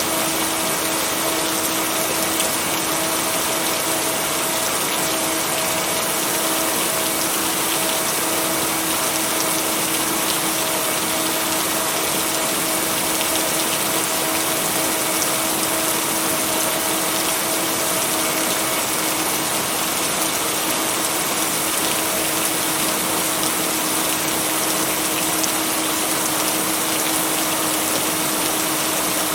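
Steady, heavy rain noise with no thunder claps, blended with a steady low hum tone, the binaural-beat tone laid under the rain, with a fainter tone an octave above it that comes and goes.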